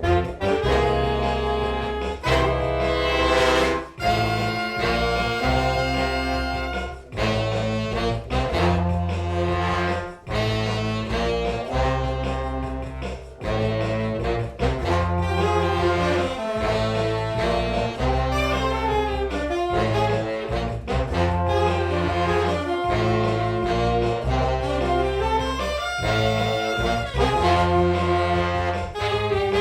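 Big band playing jazz, with saxophones and brass (trombones and trumpets) over a repeating bass line.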